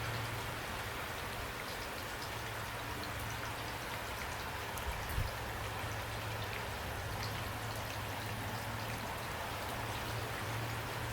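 Steady rain falling, a dense hiss with scattered individual drops ticking through it, over a low steady hum. One soft thump about five seconds in.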